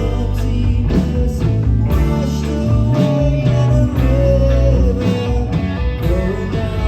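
Live rock band playing a loud instrumental passage: electric guitar with bending lead notes over bass and a steady drum beat.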